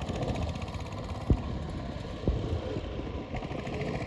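Power tiller's diesel engine running, with a couple of sharp knocks about a second and two seconds in.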